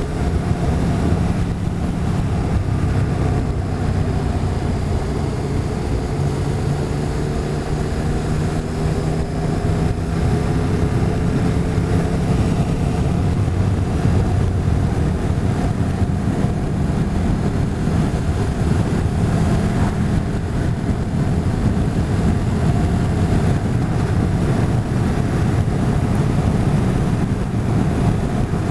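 Motorcycle engine running steadily at road speed, with wind rushing over the microphone. The engine note rises slowly over the first dozen seconds.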